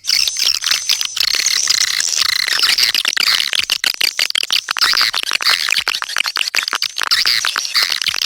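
Swiftlet call track: a dense, unbroken twittering of rapid high chirps and clicks from many swiftlets, the kind of lure sound played to draw swiftlets into a nesting house.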